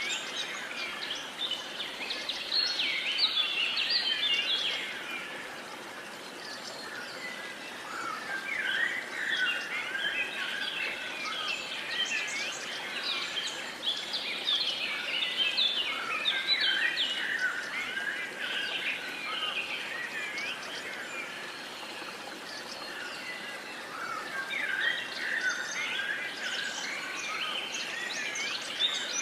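A dense chorus of many wild songbirds chirping and trilling over a faint steady hiss, easing off twice and building up again.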